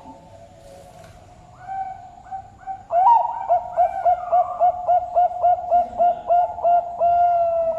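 Zebra dove (Bangkok-type perkutut) cooing: a few soft notes, then about three seconds in a loud, rapid run of short staccato coos, about three a second, ending in a longer held note.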